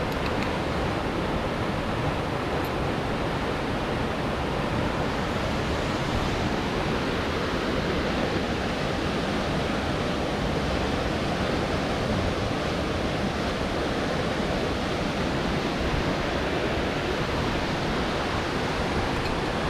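Steady, unbroken rush of a large waterfall's falling water.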